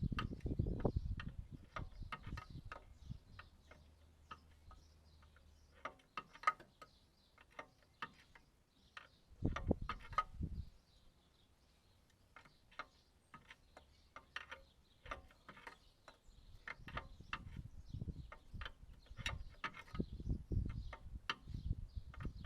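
Ratchet wrench clicking in short irregular runs and metal tools clinking as a bolt on a mini excavator's track is done up, with a few heavier knocks.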